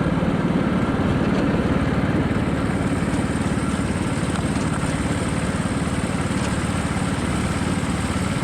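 80cc kart engine running at low, steady revs, with no rise or fall in pitch.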